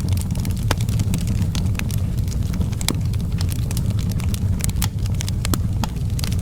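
Outdoor wood fire burning with a steady low rumble of flames and many sharp, irregular crackles and pops.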